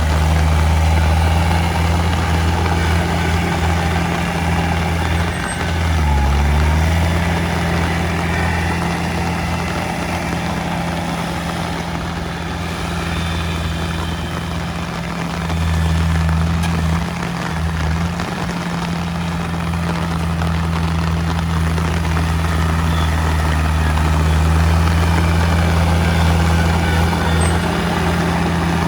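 Heavy diesel engine of earthmoving machinery running hard and steadily, its pitch dipping and recovering briefly a few times as the load changes.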